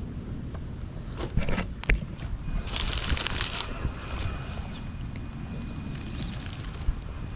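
Small electric RC crawler truck driven over rough ground: a few sharp knocks, then two bursts of scratchy crunching from the tyres and chassis, with a faint thin motor whine, over a steady low rumble.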